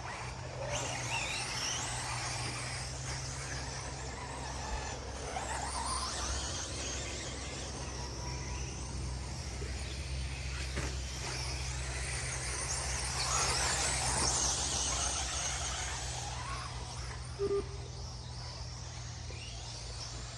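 Several electric 4x4 RC short course trucks racing, their motors whining in overlapping pitches that rise and fall as they accelerate and brake around the track, over a steady low hum.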